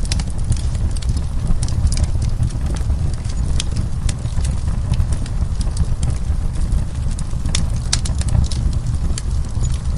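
Wood fire crackling: irregular sharp pops and snaps of burning wood over a steady low rumble of the flames.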